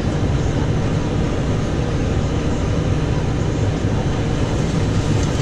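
Large farm tractor's engine running steadily while it drives the snowblower mounted on it.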